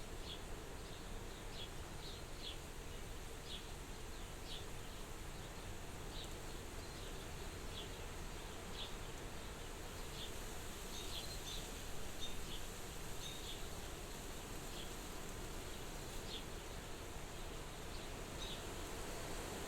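Soft wind blowing steadily at a window, with short high chirps recurring irregularly, about once a second, over it.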